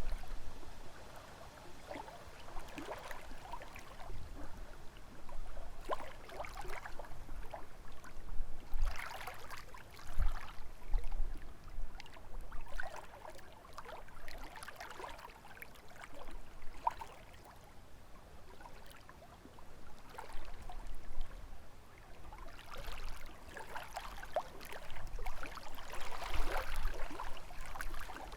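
Small lake waves lapping and splashing irregularly against the shore, with gusts of wind rumbling on the microphone.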